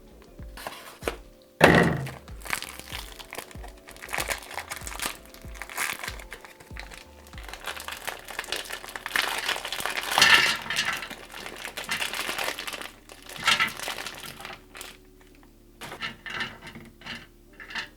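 Crinkling and tearing of a ration beef jerky packet being opened, with a sharp rip about two seconds in and more crackly handling of the packet afterward. Background music plays underneath.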